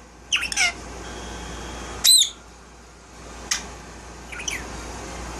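Indian ringneck parakeet giving short, high chirps and squawks: a quick cluster just after the start, one loud arching call about two seconds in, then a couple of brief chirps.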